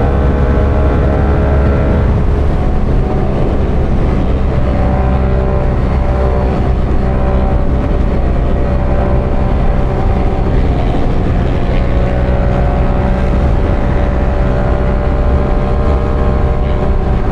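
Motorcycle engine held at high revs near full throttle at highway speed, a steady drone with heavy wind rush over the helmet microphone.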